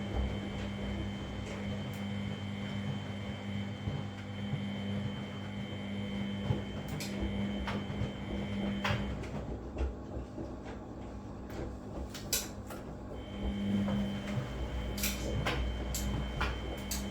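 Front-loading washing machine in its wash cycle: the drum motor runs with a steady hum and whine, stops for about four seconds a little past halfway, then starts turning again. Sharp clicks and knocks come now and then.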